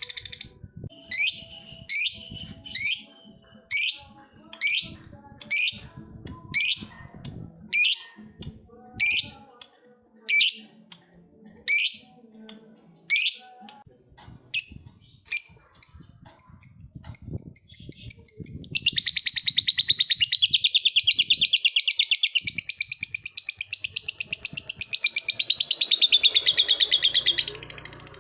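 Lovebird calling: single sharp high chirps about once a second for the first half, quickening past the middle, then breaking into a long unbroken rapid chatter, the 'ngekek', lasting about ten seconds and stopping shortly before the end.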